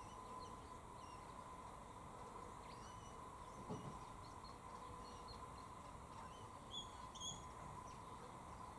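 Faint, scattered short high bird chirps in the trees, with two louder chirps near the end, over a steady faint high-pitched hum and one soft thump midway.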